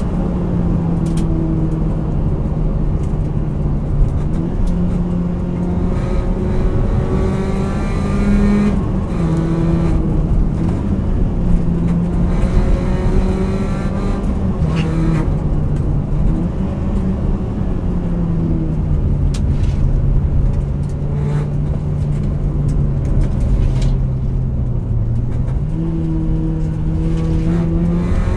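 Car engine heard from inside the cabin, pulling through the gears: its note climbs steadily, then drops back at each shift or lift-off several times, over a constant road rumble.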